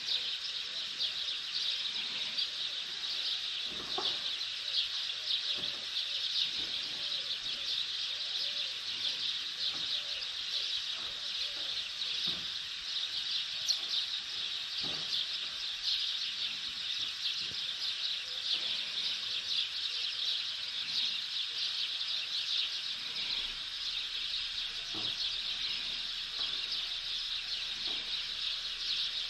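Many small birds chirping in a dense, unbroken chatter.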